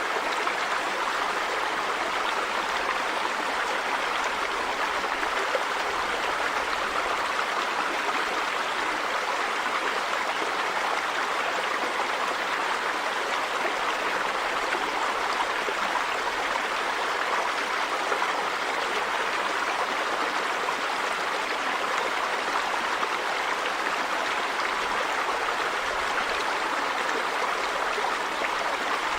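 River water running over rocks in a steady, even rush.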